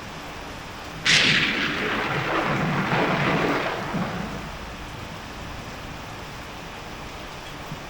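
Steady rain, broken about a second in by a sudden thunderclap that rumbles on for about three seconds and fades back into the rain.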